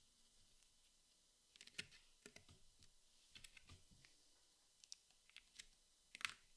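Jigsaw puzzle pieces being handled and fitted together: scattered light clicks and taps, in small clusters, with the loudest near the end.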